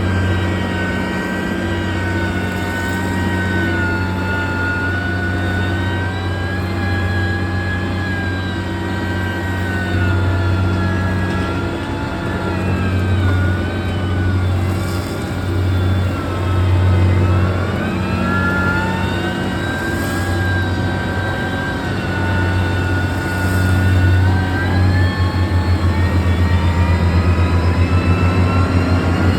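Heavy road-construction machine's diesel engine running under varying load, with a steady low rumble and a whine that rises and falls in pitch. Near the end the rumble turns into a fast throb.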